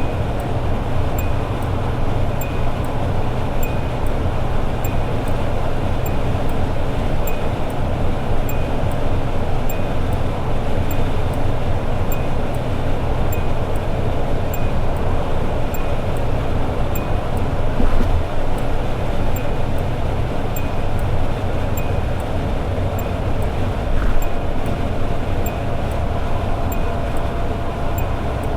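Toyota AE86 Sprinter Trueno's four-cylinder engine cruising steadily at highway speed, with constant road and wind noise, and a couple of light knocks from bumps in the road.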